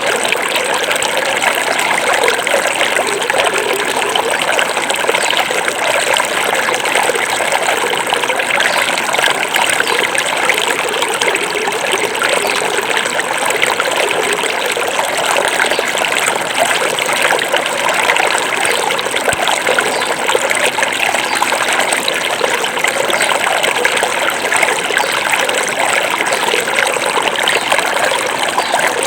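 Small forest river flowing steadily over rocks, a continuous rushing and trickling of water.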